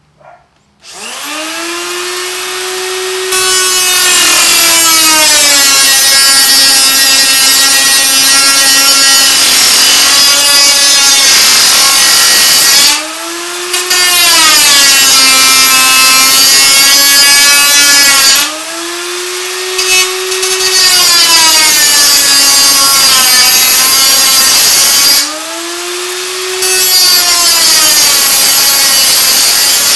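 A 3-inch cutoff tool cutting sheet steel: it spins up about a second in, then its whine drops in pitch as the wheel bites and grinds through the metal with a loud hiss. Three times the wheel eases off the metal and the whine rises briefly before it cuts again.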